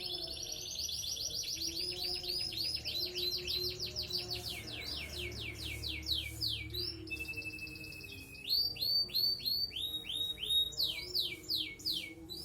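A songbird singing a long, varied song: fast runs of high, downslurred whistled notes, a short steady trill about seven seconds in, then louder, more spaced downslurs toward the end.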